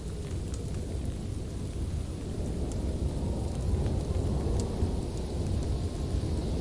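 Wood fire burning in a fireplace: a low steady rumble of flames with a few sharp crackles from the burning logs.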